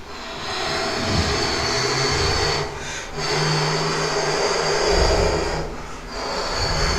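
1991 Seagrave fire engine's diesel engine running loudly under throttle, easing off briefly about three seconds in and again about six seconds in.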